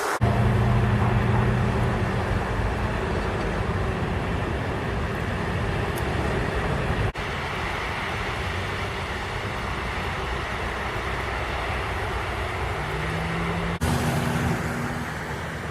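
Road traffic with car engines running in the snow, as a steady rumble with a low engine hum. The sound cuts abruptly twice, about halfway through and near the end.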